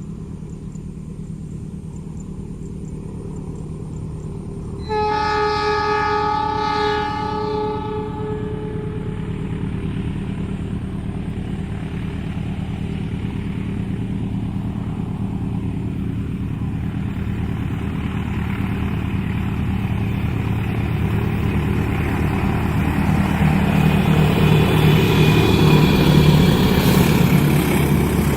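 A train horn sounds one chord for about three seconds, then the rumble of the approaching train builds steadily louder. A steady low engine hum runs underneath.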